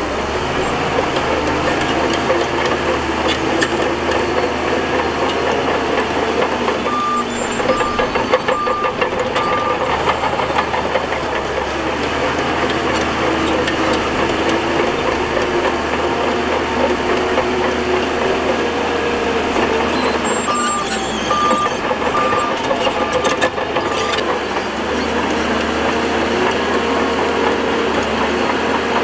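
Bulldozer engine working under load, its pitch rising and falling as it pushes, with a reversing alarm beeping in two short runs, about a third of the way in and again about three quarters of the way through.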